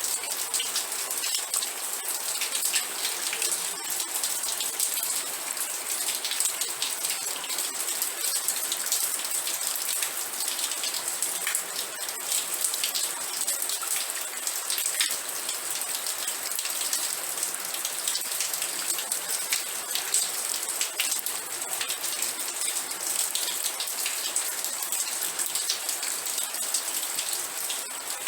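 Steady rain, with many fine drops pattering on a surface and a continuous high hiss.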